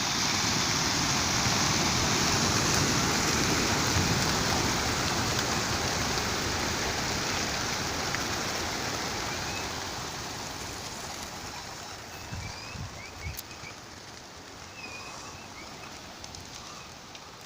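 A flock of pigeons' wings flapping together in a dense rushing whir that swells in quickly and then slowly fades over the second half. A few short bird chirps come near the end.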